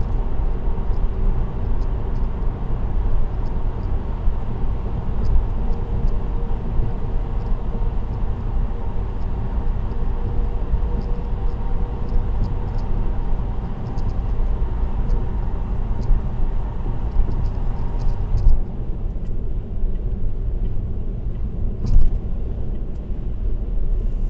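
Steady road and tyre noise of a car driving on an expressway: a continuous low rumble with a hiss above it. About three quarters of the way through, the hiss drops away, leaving a duller rumble.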